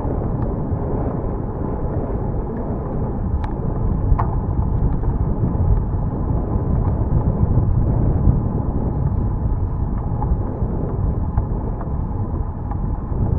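Wind rushing over the microphone of a moving bicycle, a steady low rumble with a few faint clicks.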